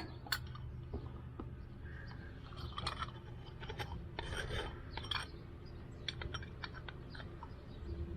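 Scattered small clicks and short scrapes of carburetor parts being handled and rubbed, over a steady low hum.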